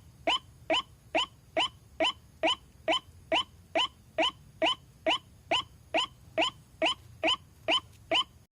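White-breasted waterhen call played as a lure: one short note repeated steadily about two and a half times a second, each note rising slightly in pitch. It stops abruptly near the end.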